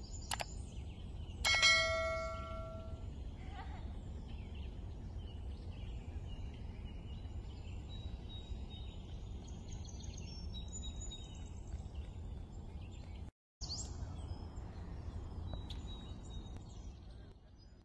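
Outdoor ambience: a steady low rumble with birds chirping throughout, and a single bell-like ding that rings out and dies away about a second and a half in. The sound cuts out for a moment near the end, then fades out.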